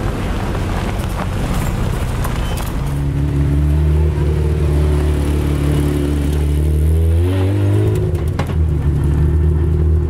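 Car engine noise: a rumble at first, then a rally car's engine holding a steady note. About halfway through, the note breaks and changes pitch briefly, then settles steady again as the car pulls away on gravel.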